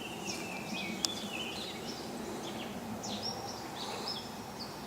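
Songbirds chirping and calling, many short whistled notes, over a steady low background noise, with one sharp click about a second in.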